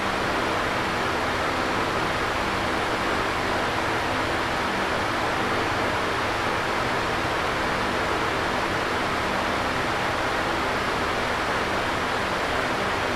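Electric fan running steadily: an even whooshing rush of air with a faint low motor hum beneath.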